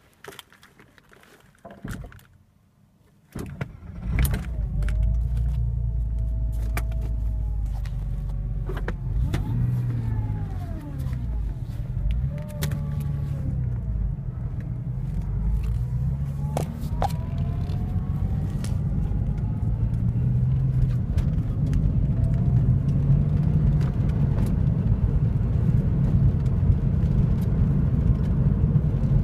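Porsche Boxster 2.5 flat-six engine starting a little over three seconds in after a few light clicks, then idling steadily with a low rumble.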